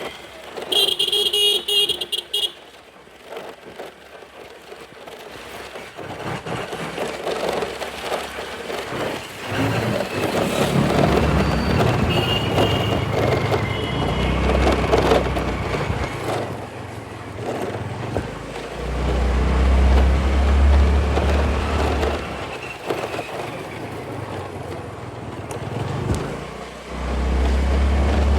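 City road traffic heard from a moving scooter: a vehicle horn honks about a second in, with another fainter horn near the middle. Between them runs a steady wash of traffic and road noise with low rumbling surges.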